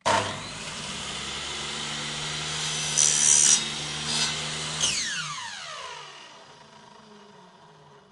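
Buzz saw starting suddenly and running at a steady whine, with a louder burst of cutting about three seconds in and two shorter ones soon after. It is then switched off, and its pitch falls steadily as the blade spins down.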